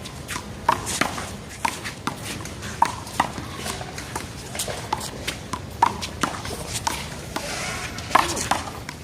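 A one-wall handball rally: a series of sharp slaps and smacks at irregular intervals, roughly one every half-second to second, as the small rubber ball is struck by hand and rebounds off the wall and the court, with players' shoes scuffing between hits.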